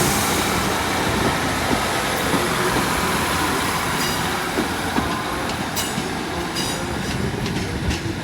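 A diesel train pulling out of the station with a steady engine and wheel rumble, its wheels clicking over rail joints and squealing lightly in the second half.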